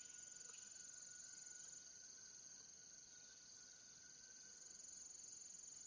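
Faint, steady chirring of crickets, with nothing else above near silence.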